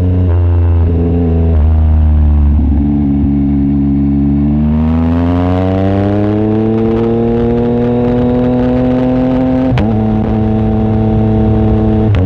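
Yamaha MT-09 SP's three-cylinder engine running through its exhaust with the baffle removed, under way. A few gear changes come early. The revs then climb steadily for about five seconds, and it shifts up with a sharp crack near ten seconds in, then runs steady.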